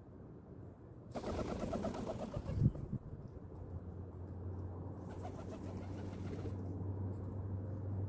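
Pigeons cooing, with a loud noisy stretch ending in a sharp thump about two and a half seconds in and a second, fainter stretch later; a steady low hum sets in a few seconds in.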